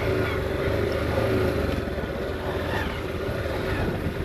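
Motorcycle running at a steady pace on the road, a low, even rumble with a faint engine drone.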